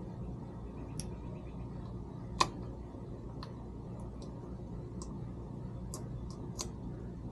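Small sharp clicks and taps of hand tools and small parts on the 6L80 transmission control module, with one louder click about two and a half seconds in, over a steady low hum.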